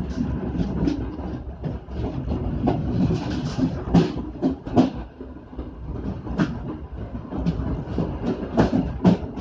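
Passenger train in motion, heard from on board: a steady low rumble with wheels clacking over rail joints, the loudest clacks about four, five and six and a half seconds in and again near the end.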